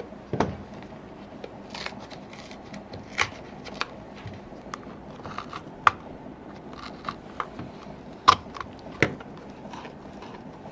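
Irregular sharp clicks and light knocks of hand tools and handling during shoe sole repair work, scattered over the stretch, the loudest near the middle and a little after.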